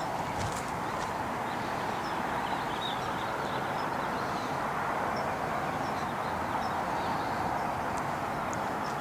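Steady outdoor background hiss, with faint high bird chirps now and then.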